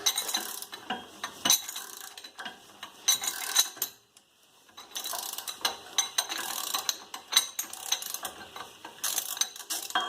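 Socket ratchet clicking as it is worked back and forth, loosening the bolts that hold the rear wheel hub. It runs in two long spells with a brief pause about four seconds in.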